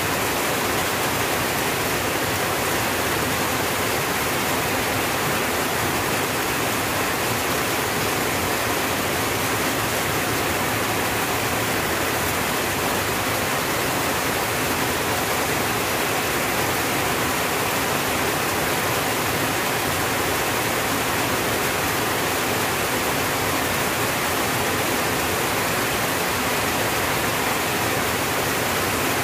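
Heavy rain falling steadily on a tin roof, a dense, even hiss that does not let up.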